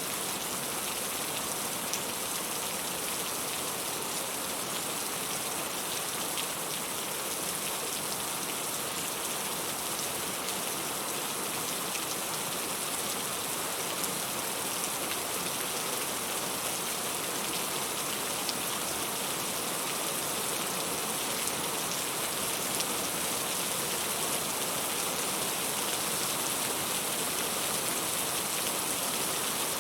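Steady rainfall, an even hiss with many fine drops pattering on a surface.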